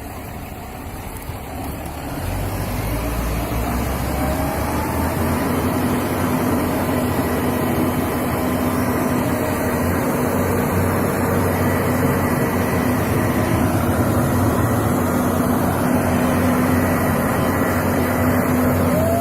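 Truck engine running steadily under load, growing louder over the first few seconds, then holding at a constant pitch.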